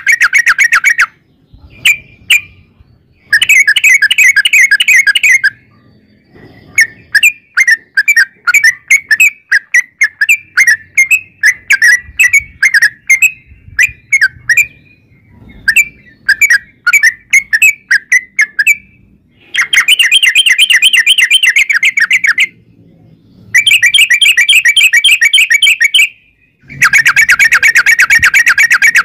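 Yellow-vented bulbul (trucukan) singing loudly: several rolls of a few seconds each, made of rapid chattering notes, with a long middle stretch of separate short chirps a few per second.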